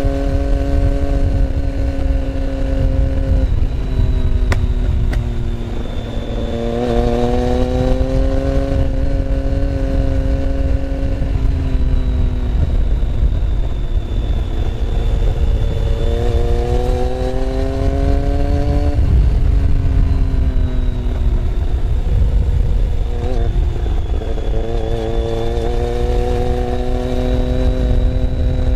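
Motorcycle engine heard onboard while riding: its pitch rises under acceleration three times and drops or breaks off between, over a heavy, steady low rumble.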